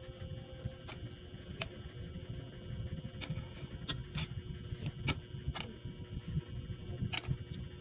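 Someone chewing chilled pineapple: irregular small mouth clicks over a low, uneven rumble.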